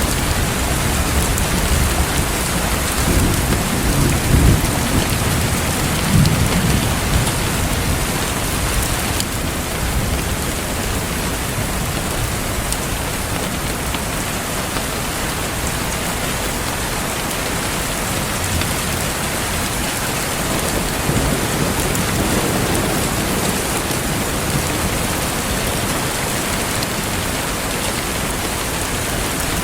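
Steady, dense rainfall hissing, with a low roll of thunder rumbling a few seconds in and a fainter rumble about two-thirds of the way through.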